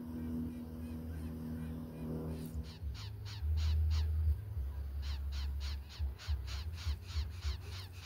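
Greater coucal nest: rapid short falling calls at about four a second begin a couple of seconds in and keep going, with low rumbling thumps as the bird's feathers brush the microphone, loudest around the middle. A low steady hum runs under the first couple of seconds.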